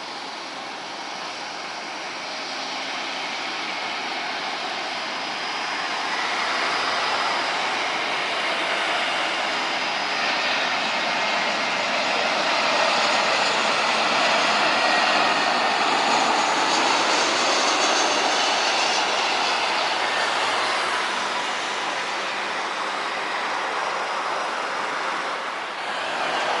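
Jet airliner on landing approach passing close by: the engine noise builds over several seconds, carrying a faint high whine, is loudest around the middle, then eases slightly near the end.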